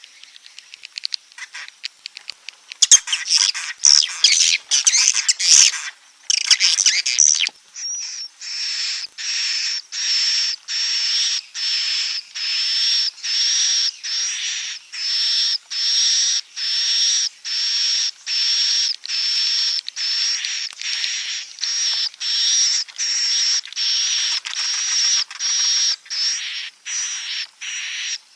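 Recorded swiftlet calls of the kind played to draw swiftlets to roost in a swiftlet house. Rapid, dense twittering runs for the first several seconds, then gives way to an even series of short, high chirps, about one and a half a second.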